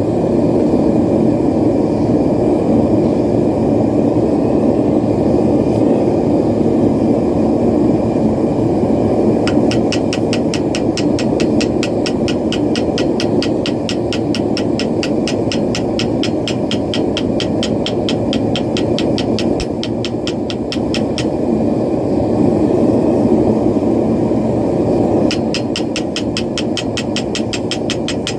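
Propane forge burner roaring steadily and loudly. About ten seconds in, a rapid, even ticking starts over it, stops about two-thirds of the way through, and comes back near the end.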